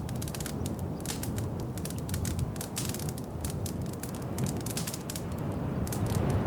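Wood fire crackling in a fireplace: dense, irregular sharp crackles and pops over a low steady rumble.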